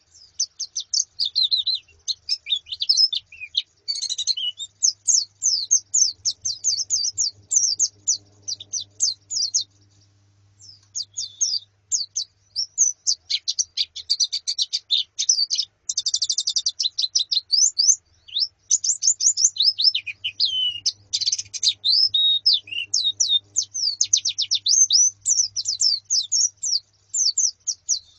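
A colony of white-eyes (pleci) chirping and twittering: dense, rapid, high-pitched calls from several birds overlapping, with short lulls now and then.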